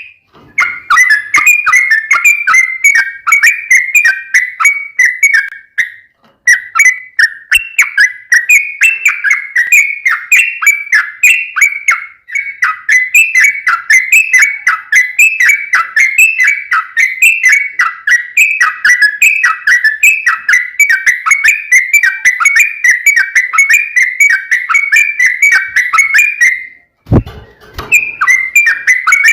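Yellow-vented bulbul (trucukan) song: a long, unbroken run of quick, bubbly chattering notes. It breaks off briefly about six seconds in, and near the end there is a short gap with a low thud before the run starts again.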